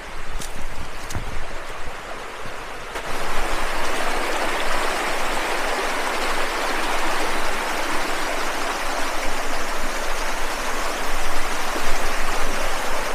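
Creek water rushing steadily over rocks below a waterfall, a hiss with no pitch, louder from about three seconds in.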